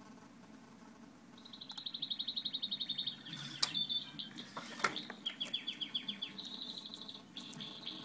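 Songbird singing fast, high trills from a bird video playing on a computer, in phrases starting about a second and a half in. A low steady purr runs underneath, and there are two sharp knocks in the middle.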